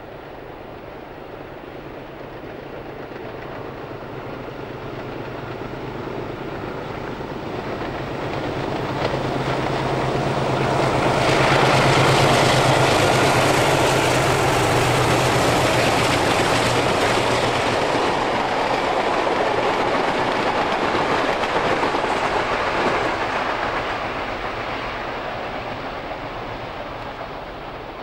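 Diesel-hauled passenger train approaching and passing close by. The locomotive engines build to a loud drone with a steady low hum about halfway through. The carriage wheels then clatter over the rail joints as the sound slowly fades.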